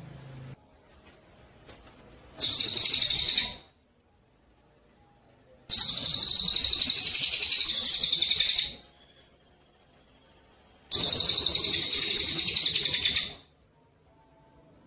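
Songbird singing three loud, rapid, buzzy trills, a short one then two longer ones of two to three seconds, separated by pauses.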